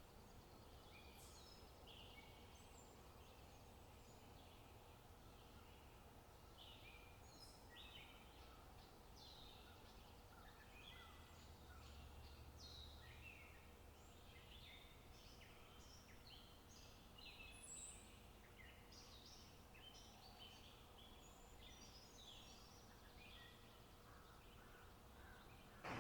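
Faint birdsong: many short chirps and calls from several birds, over a faint low rumble.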